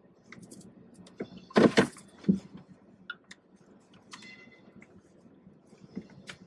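Scattered clicks and knocks from handling around a car, with a loud rustling burst about a second and a half in, followed by a thump.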